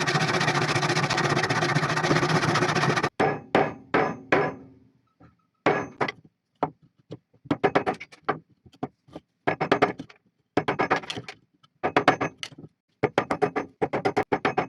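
A rasp filing wood, which cuts off abruptly about three seconds in. A hammer then strikes, first four separate blows with a short ring, then quick bursts of rapid strikes.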